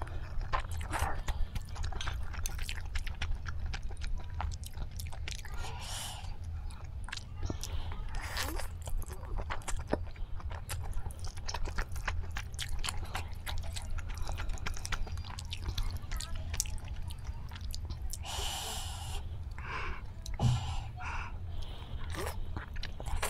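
Close-up wet chewing of instant noodles, with many small sharp mouth clicks and a few louder slurps as chopstick-fed noodles are drawn in. The noodles are Daebak ghost pepper dry black noodles.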